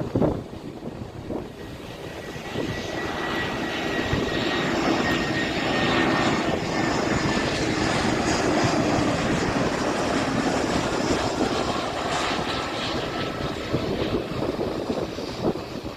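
Airliner engines passing, the noise building a couple of seconds in and then holding steady, with a faint whine falling slightly in pitch.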